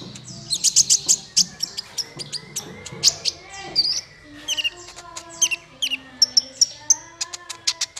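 Small songbirds singing a fast, busy string of sharp chips, short whistles and trills. Several notes sound at once, as in a mixed song-tutor recording.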